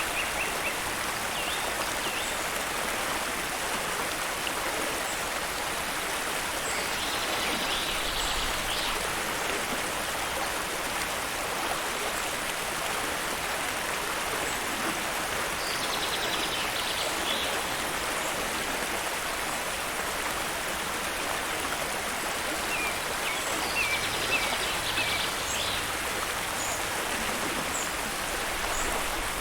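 Steady rushing of a waterfall's falling water. Short high chirps come through it every eight seconds or so, with a cluster of quick chirps near the end.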